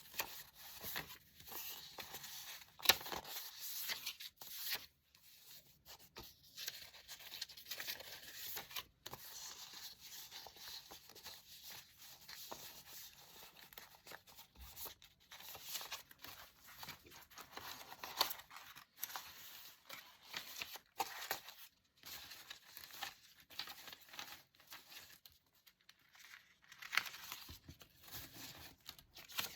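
Close-up paper handling: paper rustling, crinkling and tearing in irregular bursts, with a few sharp clicks and short quiet gaps.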